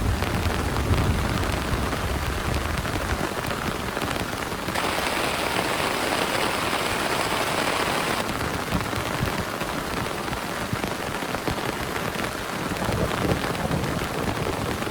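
Heavy rain pouring onto a plastic tarp in a steady dense patter, with a low rumble of thunder fading over the first few seconds. About five seconds in the rain turns louder and hissier for some three seconds, then drops back abruptly.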